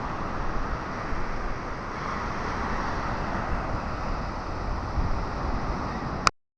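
Waves of the incoming tide washing onto the beach, a steady rushing noise with wind buffeting the microphone. The sound cuts off abruptly near the end.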